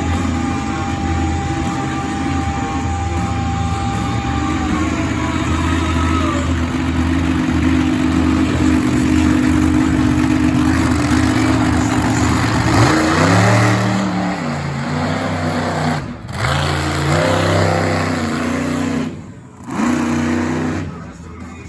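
Monster truck engine running steadily, then revving up and down again and again from about two-thirds in, with brief drops as the throttle is let off.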